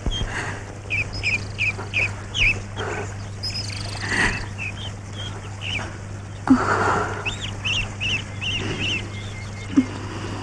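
Birds chirping in runs of short, quickly repeated calls, over a steady low hum on the film soundtrack. A brief sharp knock comes about six and a half seconds in, and another near the end.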